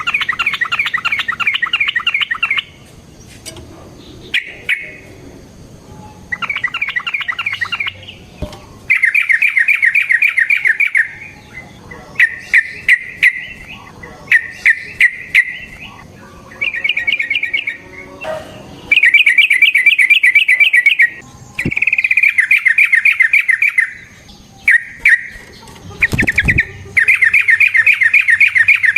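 Yellow-vented bulbul (trucukan) singing in loud bursts of fast, rolling chattering phrases. The phrases come one after another, each one to two seconds long, with a few short single notes between them.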